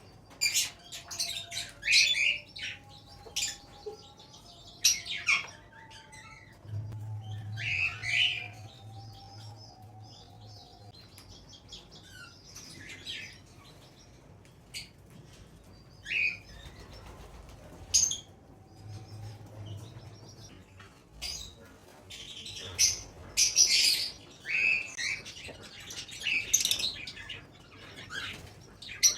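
Parrot chick calling over and over, short harsh chirps and squawks in clusters, busiest at the start and again in the last few seconds.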